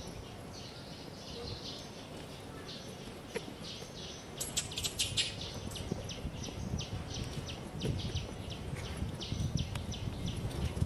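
Birds chirping: short, high chirps repeating several times a second, with a quick dense flurry about four and a half seconds in, over a low outdoor rumble.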